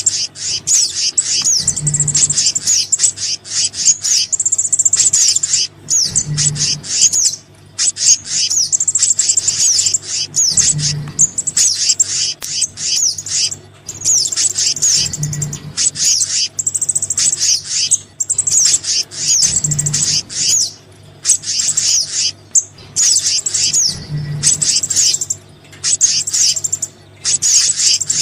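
Bird-lure playback of small songbird calls, a mix of sogon and black-naped monarch (kehicap) calls, made to draw small birds in. It is rapid, high-pitched chirping and trilling in short repeating phrases, over a steady low hum with a soft low pulse about every four seconds.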